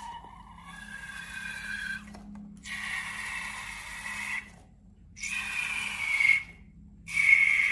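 Rubber balloon squealing in four stretches of about one and a half to two seconds each, with a high, slightly wavering tone over a hiss and short breaks between.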